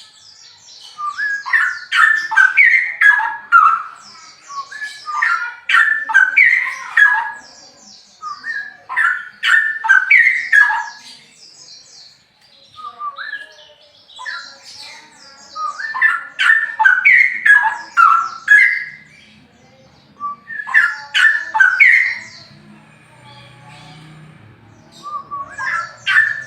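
Straw-headed bulbul singing loudly: rich, bubbling phrases of quick rising and falling notes, each lasting a couple of seconds, repeated after short pauses.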